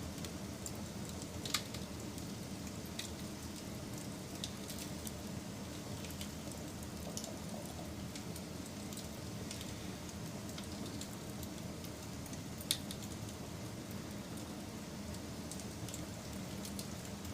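Wood fire burning with a steady low rumble and scattered small crackles, and two sharp pops, one about a second and a half in and one near the end.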